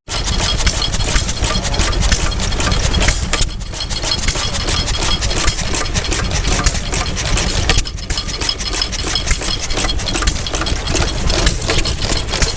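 Vintage stationary engine running steadily, its rapid firing knocks loud and continuous, with a brief dip in level twice.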